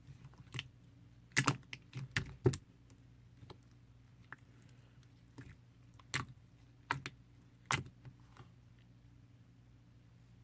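Mint-chocolate pearl slime being handled and pressed, giving scattered sharp clicks and pops, several in a quick cluster about a second and a half in and more around six to eight seconds, over a low steady hum.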